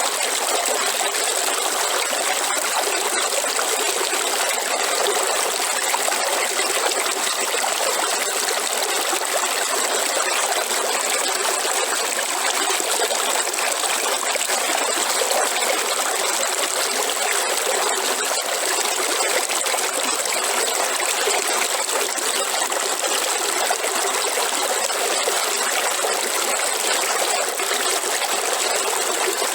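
Waterfall: falling water rushing and splashing in a steady, unbroken stream.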